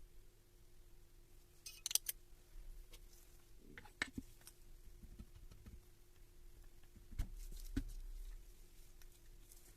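A few sharp clicks and knocks from small parts or tools being handled, over a faint steady hum: a quick cluster of clicks about two seconds in, a click near the middle, and two duller knocks with a low thud later on.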